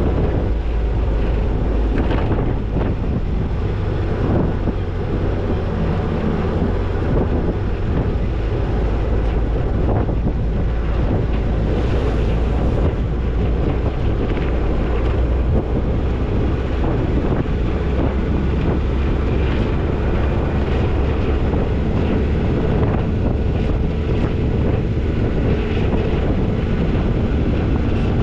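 Toyota Tercel 4WD wagon driving along a dirt trail: a steady low rumble of engine and running gear, with wind buffeting the microphone.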